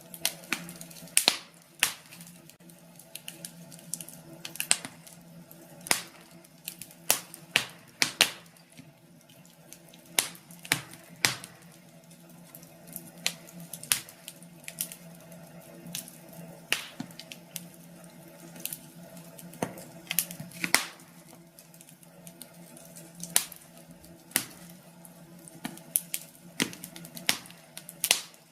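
Wood fire crackling in a fireplace: irregular sharp pops and snaps over a faint steady low hum.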